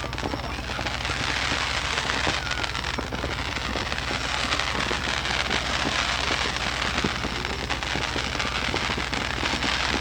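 Fireworks crackling: a dense, continuous crackle with occasional sharper pops.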